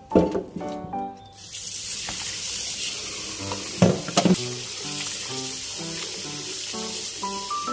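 Pork sizzling in hot oil: a steady hiss that starts suddenly about a second and a half in and cuts off near the end. There are a few sharp knocks in the middle, and background music plays throughout.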